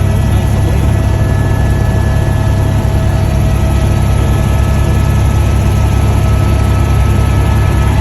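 Helicopter running steadily: a loud, constant low rumble from the rotor and engine with a steady high whine over it.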